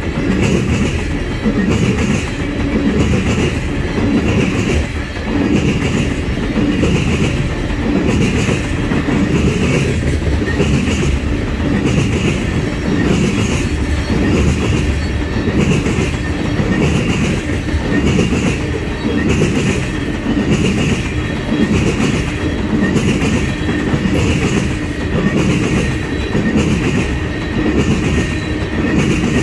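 Railroad tank cars of an oil train rolling past close by: a steady, loud rumble of steel wheels on rail, with clickety-clack repeating at an even pace as the car trucks cross rail joints. A faint thin steady tone from the wheels runs above it.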